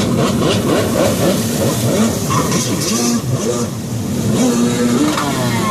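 Yamaha Super Jet stand-up jet ski with a 760cc two-stroke twin engine, revving up and down repeatedly as it is ridden.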